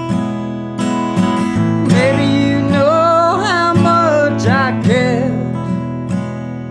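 Acoustic guitar strummed in a steady rhythm of chords. A wordless melody line slides between notes over it from about two seconds in to past the middle.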